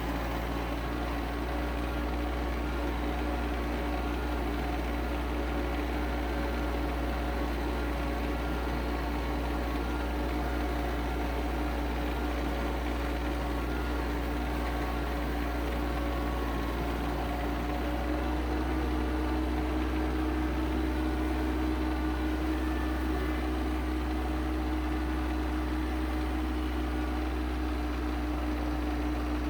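Kioti CS2520S subcompact tractor's three-cylinder diesel engine running steadily.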